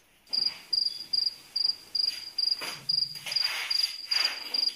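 Cricket chirping, one high chirp repeated about three times a second, starting and stopping abruptly: the comedy 'awkward silence' cricket sound effect.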